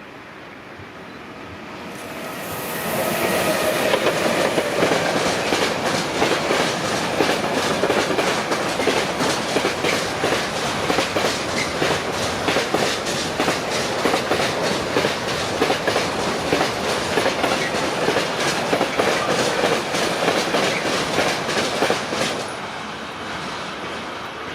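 A train passing close by. The sound builds over the first few seconds into a long, steady run of wheel clicks over the rail joints, then falls away near the end.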